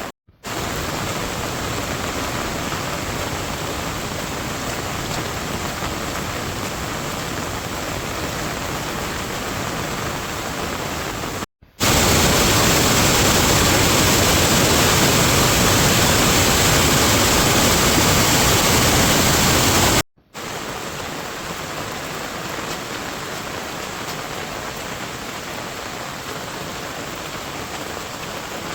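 Steady rain falling, a continuous hiss, in three stretches split by brief dropouts to silence; the middle stretch is louder and fuller.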